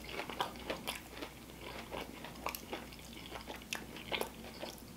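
A person chewing a bite of fried, breaded jalapeño popper with red pepper jelly: scattered small crunches and mouth clicks.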